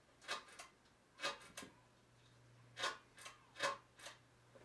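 Pull-chain speed switch of a Hunter 1930s Original ceiling fan being pulled repeatedly, giving about ten sharp clicks in small groups, with a low motor hum coming in about a second and a half in. The switch has a dead spot where a pull does nothing, which the owner puts down to dirt in the pull chain.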